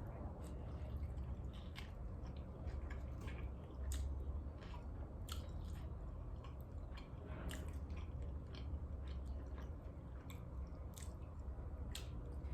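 Close-miked chewing of birria tacos: wet, smacking mouth sounds with many small irregular clicks.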